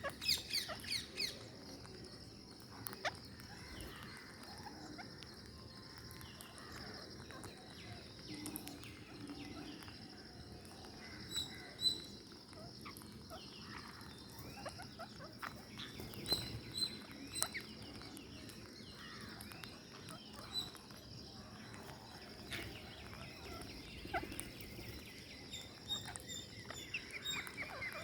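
Ring-necked parakeets feeding: scattered clicks and small crunches of beaks working food, with a few short high chirps, a burst of them in the first second.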